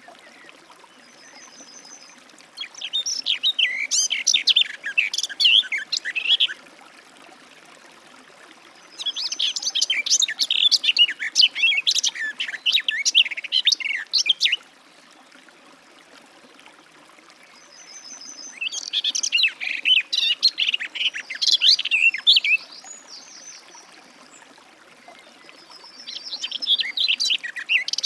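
Garden warbler singing: long, rapid, rambling warbled phrases of about four to six seconds each, separated by pauses of a few seconds. The last phrase begins near the end.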